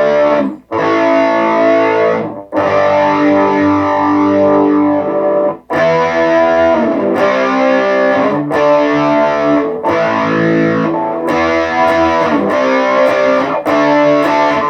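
Electric guitar played through a Positive Grid Reactor 50 1x12 combo amp on a distorted, cranked Marshall-style tone with moderate to high gain. Chords are struck and left ringing for a few seconds each, with several sudden short stops between them.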